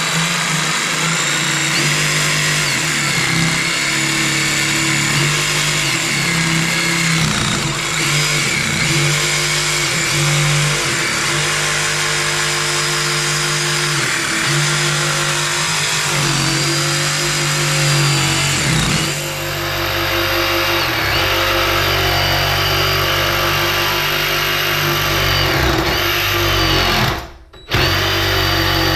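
DeWalt DCS331 20V cordless jigsaw running continuously while making curved cuts, its motor pitch wavering as the blade is steered. It cuts out briefly about two seconds before the end and starts again.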